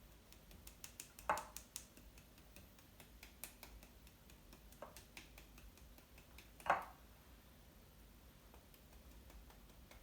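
Scattered light clicks and taps of kitchen tongs handling chicken wings as they are dipped back into flour, with two louder short knocks, one about a second in and one about two-thirds of the way through.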